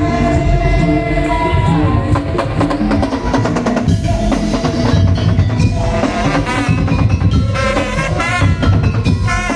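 Madurese daul percussion ensemble playing loudly: fast, dense drumming with heavy bass-drum beats under a held melody line.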